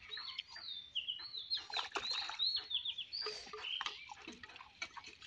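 Birds chirping: a quick run of short, high calls, each dropping slightly in pitch, with scattered faint clicks.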